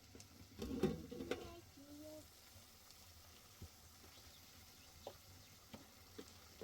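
Food sizzling as it fries in a pan, with a louder patch about a second in and a few light clicks later.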